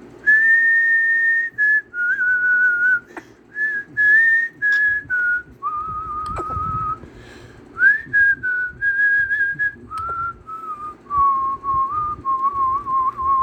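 A slow whistled tune of clear, held single notes that step up and down in pitch. It sinks to lower, slightly wavering notes near the end.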